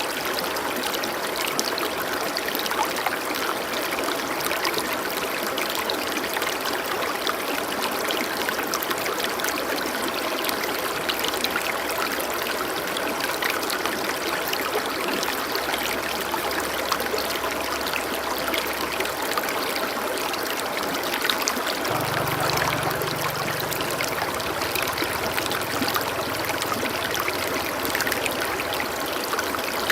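Stream water flowing steadily. A faint low tone joins about two-thirds of the way in.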